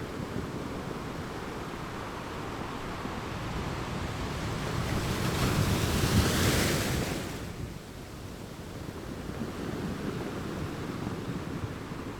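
Ocean waves on a beach: a steady wash of surf that builds as a wave comes in, breaks loudest about six to seven seconds in, then drops away as it recedes.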